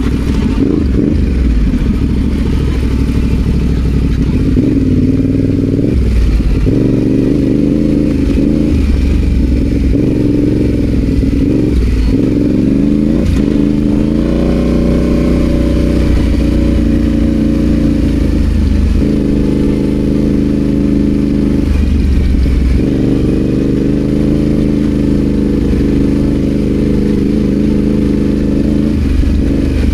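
Yamaha Ténéré 700 parallel-twin engine riding off-road, the revs rising and falling every few seconds with the throttle as it works along a rutted green lane.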